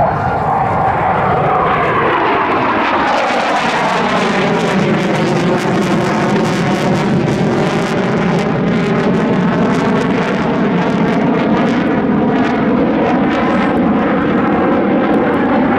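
McDonnell Douglas RF-4 Phantom's twin J79 turbojets, loud and steady in a low pass, with a sweeping pitch that falls and then rises again as the jet goes by.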